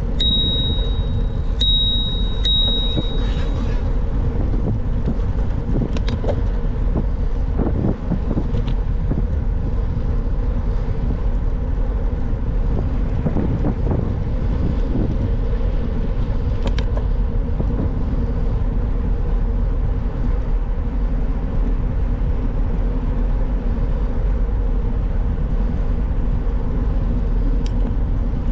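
Bicycle bell rung three times in quick succession, a clear high ding each time, over the steady low rumble of wind and tyre noise while riding.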